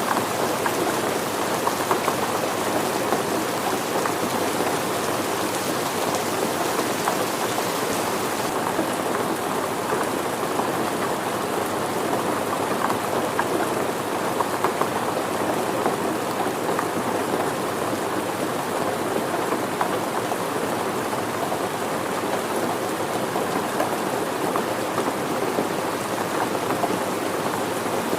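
Steady rain falling, with many individual drops striking surfaces. The higher hiss thins slightly about eight seconds in.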